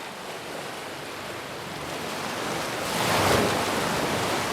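Ocean surf at the shore: a wave swells and breaks about three seconds in, then the wash eases off.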